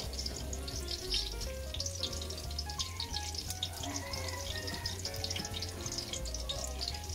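Garlic cloves frying in oil in a steel wok: a steady crackling sizzle, heard under background music with a bass line.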